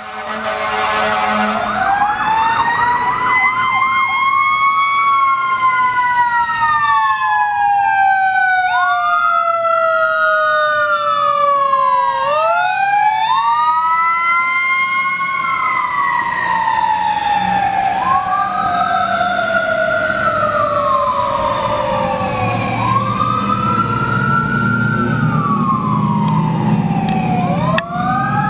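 Fire apparatus sirens. A horn blast opens it, a fast yelp follows, then wailing sirens overlap, rising and falling slowly, one tone sinking for several seconds. A truck engine rumbles underneath, louder near the end.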